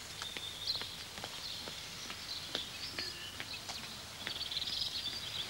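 Small birds chirping and twittering, in short repeated calls that grow busier near the end, with faint scattered clicks beneath.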